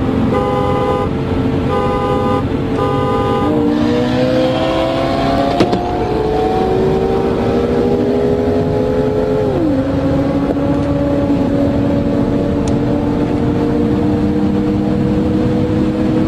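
Three short car-horn toots signalling the start of a roll race, then hard acceleration in third gear from about 120 km/h, heard from inside a BMW 335i's cabin: its turbocharged straight-six and the other cars' engines climb slowly in pitch, and one engine note drops suddenly about ten seconds in.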